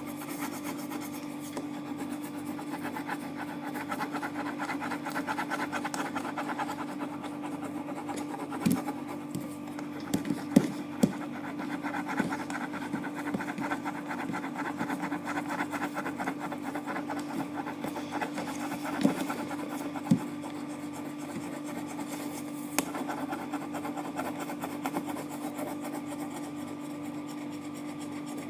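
Colouring strokes on paper: a fast, scratchy back-and-forth rubbing as an area is filled in, with a few short sharp taps in between.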